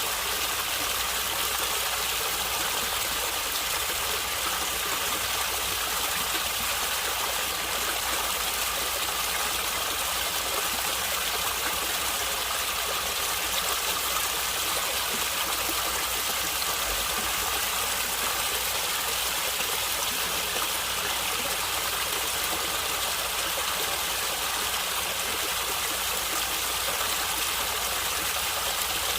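Stream water running and gurgling steadily, an even rushing noise with no pauses.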